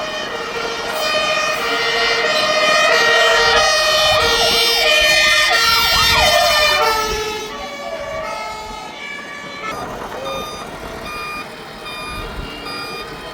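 Several fire engine sirens sounding together as a convoy passes: overlapping two-tone hi-lo sirens with a wailing siren among them. They grow loudest about a third of the way in, then fade to fainter sirens.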